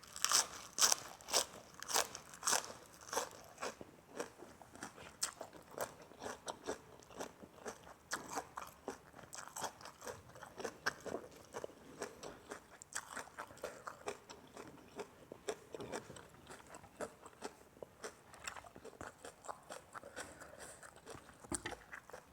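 A person chewing and biting crunchy food close to the microphone: a run of irregular crisp crunches, a few each second, loudest in the first few seconds.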